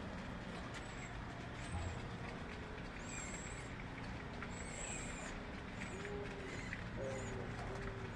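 Birds calling: short, high, thin calls repeated every second or two, joined about six seconds in by a run of lower whistled notes, over a steady background rumble.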